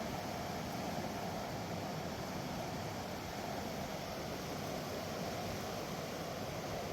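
Mountain river rushing over rocks: a steady, unbroken roar of water.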